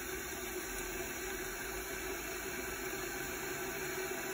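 Steady low hum with an even hiss; no distinct events.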